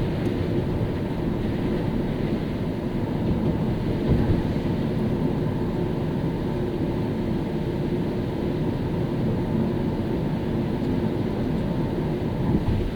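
Car driving at a steady pace on a wet road: a continuous low rumble of tyre and engine noise, with a faint steady hum.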